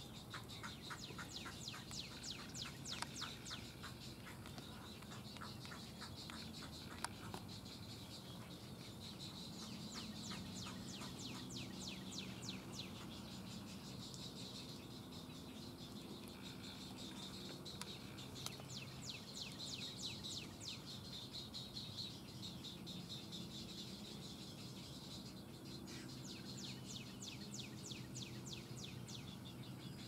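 Birds calling in rapid clicking trains, in runs of a few seconds that come again and again, over a faint low hum.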